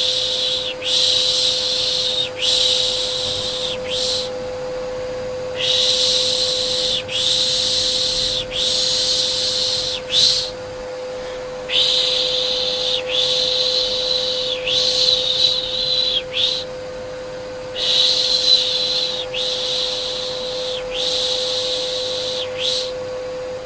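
Rhythmic 'shh, shh' shushing for soothing a baby, in runs of four to six even strokes with a short pause between runs, over a steady unbroken hum.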